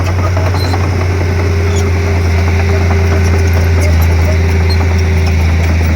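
Bulldozer's diesel engine running steadily, with scattered light clicks over its low, even drone.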